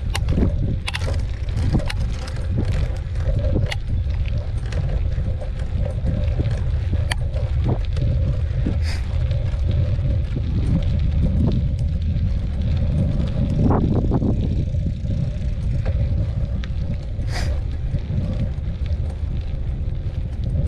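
Wind buffeting the microphone during a bicycle ride, a steady low rumble, with frequent short clicks and rattles from the bike and a faint steady hum.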